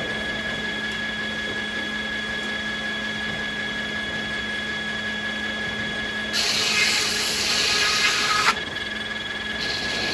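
Sawmill machinery running with a steady hum and whine. About six seconds in, a louder rushing noise lasts about two seconds and then cuts off sharply.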